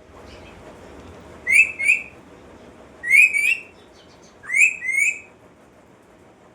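Pet parrot whistling a two-note call three times, about a second and a half apart.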